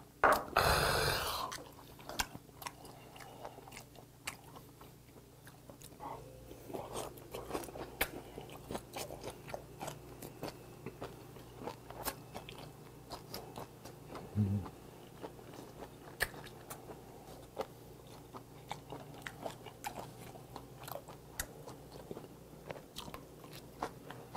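Close-miked chewing of boiled hagfish, with wet mouth clicks and small chopstick taps throughout. Near the start there is a loud breathy exhale after a shot of soju, and about midway a short low hum.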